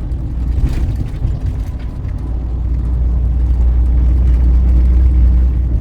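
Steady low rumble of a semi-truck's engine and road noise heard from inside the cab while driving, growing slightly louder toward the end.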